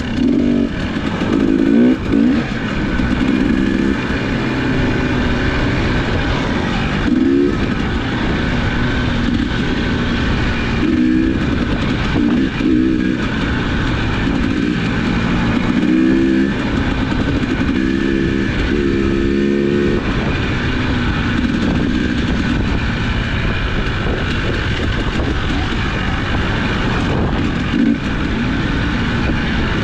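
Dirt bike engine being ridden, revving up and easing off again and again as it goes through the gears, with wind rumbling on the microphone throughout.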